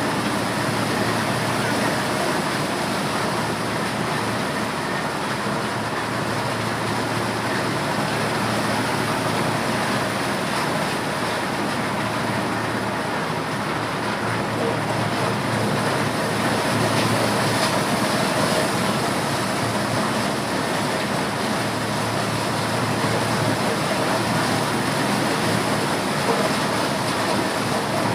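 Corn-shelling machine running steadily: a loud, even mechanical din with no let-up.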